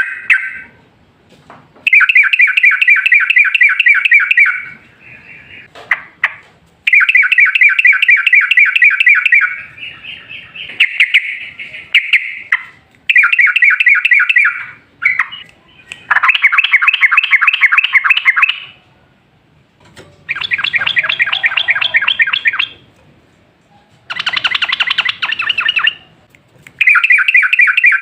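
Yellow-vented bulbul (trucukan) singing in repeated bouts of fast, bubbling chattering notes. Each burst lasts two to three seconds, with short pauses between, about eight bursts in all.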